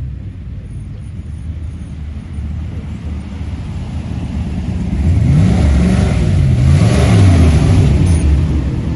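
Car engines running, then about five seconds in a car drives close past, its engine note sliding in pitch as it goes by and loudest about seven seconds in.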